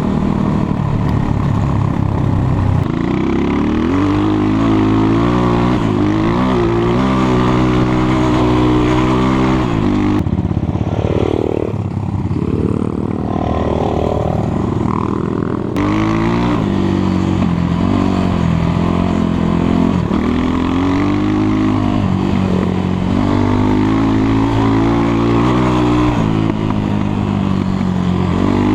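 Enduro motorcycle engine running under throttle, its pitch rising and falling over and over as it revs up and eases off. For several seconds in the middle it drops to a lower, wavering note before picking up again.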